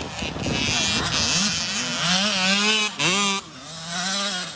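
Dirt bike engine revving hard as it passes, its note climbing, dropping sharply about three seconds in at a shift or throttle chop, then climbing again.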